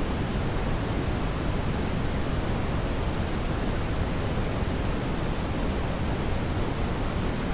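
Brown noise: a steady, unbroken rush, strongest in the low end and fading toward the highs, with no change.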